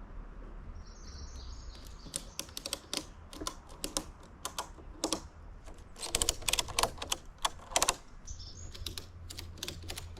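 Walnut boards and wooden stickers being laid on a lumber stack: a run of sharp, irregular clacks and knocks, densest a little past the middle.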